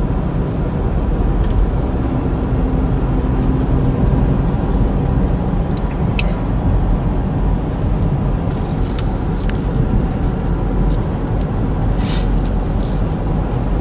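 Steady road and engine noise heard inside the cabin of a 2013 Chevy Equinox with the 2.4-litre four-cylinder, driving along at an even pace.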